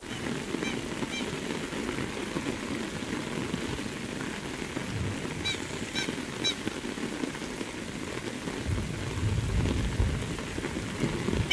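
Very heavy rain pouring steadily onto a paved road and grass, with a few brief high chirps and a low rumble late on.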